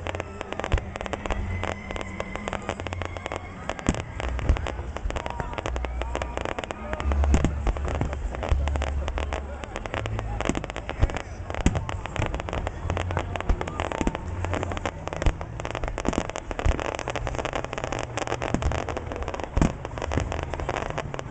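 Fireworks bursting overhead: a dense run of sharp pops and crackles with heavier bangs every few seconds.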